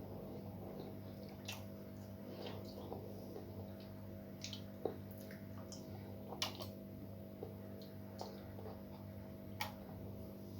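A person eating close to the microphone: scattered short, wet mouth clicks and smacks from chewing, at irregular intervals over a steady low hum.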